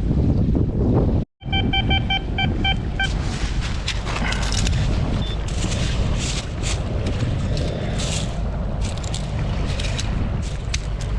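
Wind buffeting the microphone, the loudest thing throughout. About a second in, after a brief dropout, a Tesoro Cutlass metal detector gives a quick run of short, evenly pitched beeps, about five a second, as it sounds off on a target. Then comes a long stretch of crunching and scraping clicks, typical of stony foreshore ground being dug or sifted.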